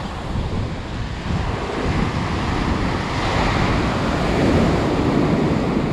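Ocean surf breaking on the beach, a steady rush that swells a little louder about two seconds in, with onshore wind buffeting the microphone.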